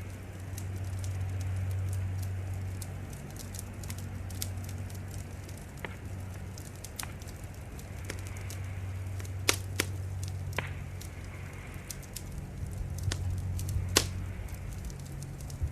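Wood fire crackling, with irregular sharp pops over a steady low rumble; two louder pops stand out, one in the middle and one near the end.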